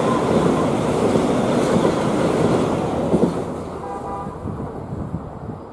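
Renfe Class 449 electric multiple unit departing along the platform: the rumble of wheels and running gear is loud as the cars go by, then fades as the train draws away. A brief faint tone sounds about four seconds in.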